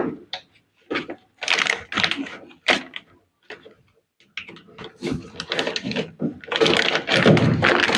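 Irregular clicks, knocks and plastic clatter of washing-machine parts being handled during disassembly, as hoses and fittings are pulled off, with a denser stretch of rattling near the end.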